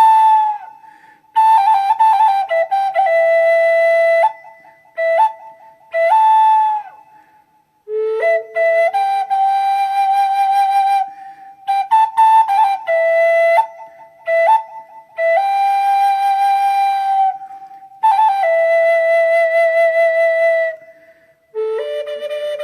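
Solo flute playing a slow melody of long held notes in short phrases, with brief pauses between phrases and quick ornamental flicks between some notes.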